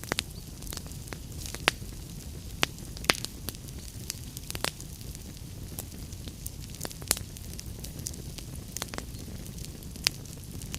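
Wood fire burning: irregular sharp crackles and pops over a steady low rumble, with a few louder snaps here and there.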